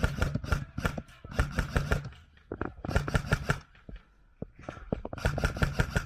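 Airsoft guns firing rapid bursts of sharp clicks, about five bursts with short gaps between them.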